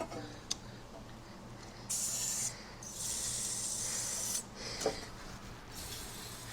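Aerosol can of PB Blaster penetrating oil spraying in two hissing bursts, a short one and then a longer one of about a second and a half, onto a rusted, stuck screw to free it.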